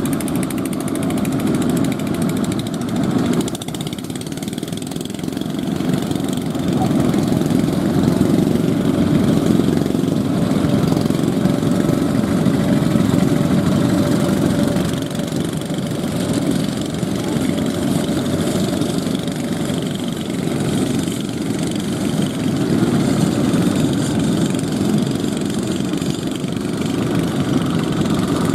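Fishing boat engines running steadily, swelling and easing in loudness.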